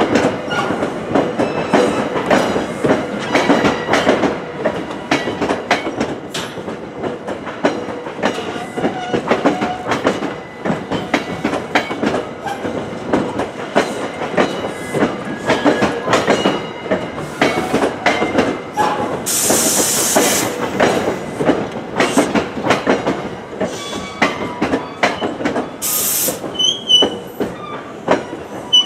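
NJ Transit passenger coaches rolling past at close range, their wheels clattering and knocking over rail joints and switches. About two-thirds of the way in there is a sharp burst of hissing, and a shorter one follows a few seconds later. Near the end a high wheel squeal begins.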